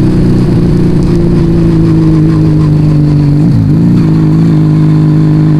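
Yamaha Vega ZR motorcycle engine running through an aftermarket Arrow exhaust at a steady cruise. About three and a half seconds in, the engine note dips briefly and then climbs back to a steady pitch.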